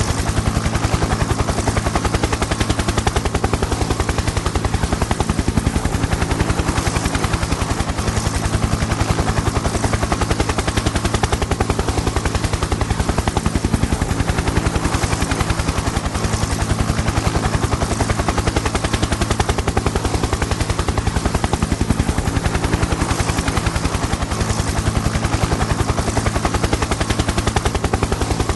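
Helicopter in flight: a steady, rapid chopping of the rotor blades over a continuous engine drone.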